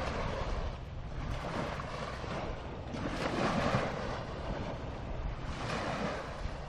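Wind buffeting the microphone with a low rumble, over a rushing noise that swells and fades, most strongly about three seconds in and again near the end.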